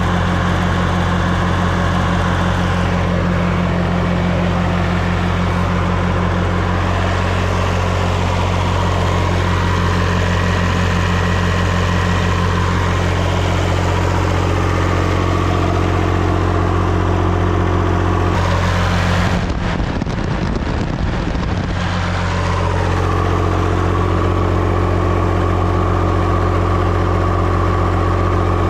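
Massey Ferguson 245 diesel tractor engine idling steadily as it warms toward operating temperature, run to check whether its freshly flushed radiator now keeps it from overheating. The sound briefly changes and goes muffled about two-thirds of the way through.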